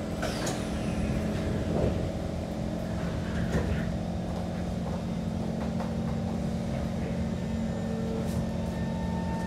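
Inside a Kawasaki C151 MRT train car: the sliding doors shut about half a second in. The stationary car then hums steadily from its onboard equipment. A faint steady whine begins near the end.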